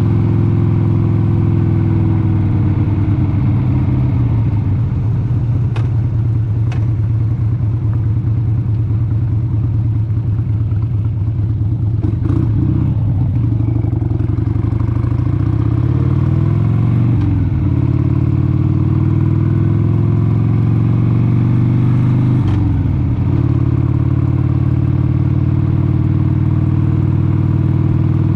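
1996 Harley-Davidson XLH883 Sportster's 883 cc air-cooled V-twin running under way. The engine note holds mostly steady, climbs in pitch in the middle stretch, and twice breaks and picks up again at a lower pitch, as with gear changes.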